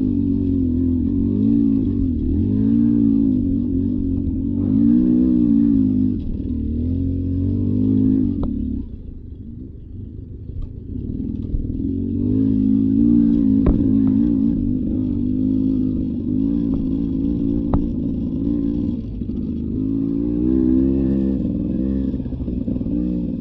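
Beta 300 RR two-stroke single-cylinder dirt bike engine revving up and down as the throttle is worked, dropping to low revs for a few seconds about nine seconds in before pulling again. A few sharp clicks sound over it.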